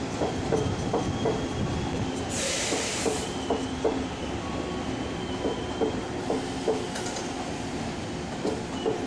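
Tze-Chiang express train rolling slowly in to stop, its wheels clicking over the rail joints with a faint thin squeal. A short burst of hiss comes about two and a half seconds in.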